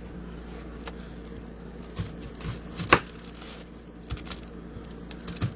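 Knife knocking on a cutting board as an onion is cut: a handful of irregular knocks, the loudest about three seconds in, over a steady low hum.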